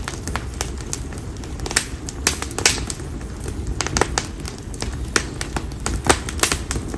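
Konara oak firewood burning in an open fire, crackling with irregular sharp pops and snaps over a low steady rumble.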